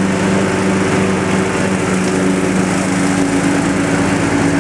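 John Deere mower's engine running steadily under load, its lowered all-weather blade mulching wet leaves.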